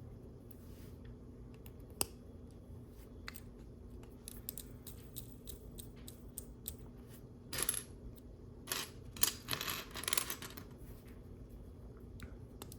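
Small plastic LEGO pieces clicking and rattling as they are handled and pressed together, with a sharp click about two seconds in and a cluster of rattling from loose pieces being sifted in the second half, over a faint steady hum.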